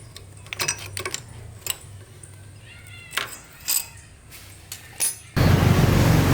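A few light metallic clinks of tools and parts, then about five seconds in a loud, steady motorbike engine running starts suddenly, with a low hum under it. The engine is likely the Honda four-stroke under repair.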